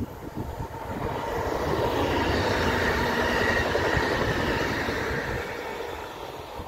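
ED78 electric multiple unit (Newag Impuls) passing at speed: wheel-on-rail rumble with a faint high whine, rising to its loudest about two to four seconds in, then fading away. Wind buffets the microphone.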